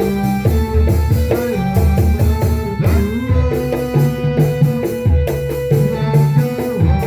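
Instrumental band music with a steady drum beat, a bass line and a plucked string instrument.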